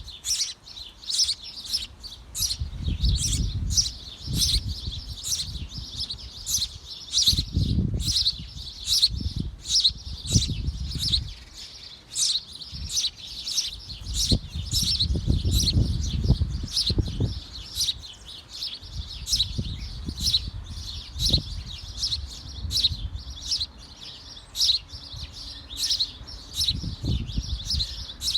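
Small birds chirping in a rapid, steady series, about two to three high chirps a second. Low rumbling noise comes and goes beneath the chirps.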